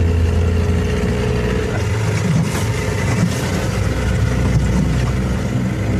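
Motorboat engine running steadily under way, with rushing water and wind noise.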